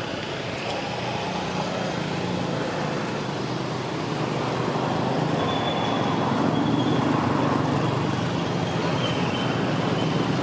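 Steady road traffic noise: a motor vehicle's engine and tyres rumbling, growing a little louder about halfway through.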